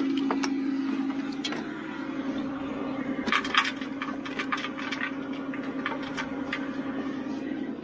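Steel tow chain clinking and rattling as it is handled, with a burst of sharp metal clinks about three and a half seconds in, over the steady hum of the recovery truck's engine running.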